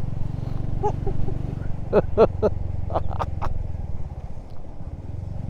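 Motorcycle engine running steadily while riding, heard from the rider's helmet mic. About one to three and a half seconds in there are several short, sharp sounds as the bike rides over a rough, bumpy road surface.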